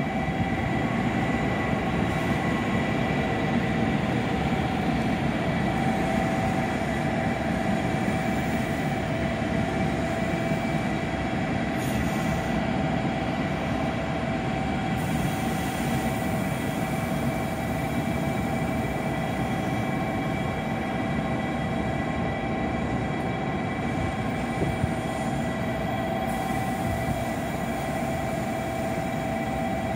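Shinkansen N700-series train moving slowly along the platform: a steady rumble of wheels on the rails with a constant whine over it.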